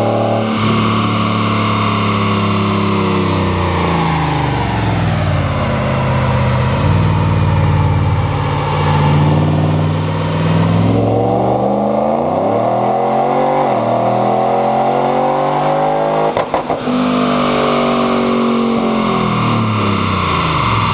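Supercharged Dodge Ram 1500's V8 running through its valved dual-mode performance exhaust: revs fall off over the first few seconds, hold low, climb again about eleven seconds in, stutter briefly about sixteen and a half seconds in, then fall near the end. A high supercharger whine rises and falls with the revs.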